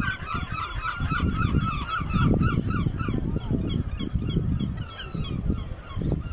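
Birds calling: a dense run of short honking calls, several a second, that thins out in the second half, over a low rumble.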